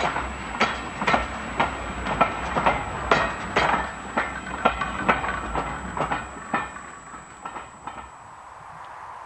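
A passenger train's coaches roll past close by, their wheels clacking over rail joints about twice a second over a steady rumble. The clacks fade as the train draws away, leaving a quiet steady background near the end.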